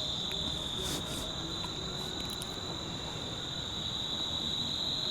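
Insects trilling in one continuous, steady high-pitched drone, with a few faint ticks about a second in.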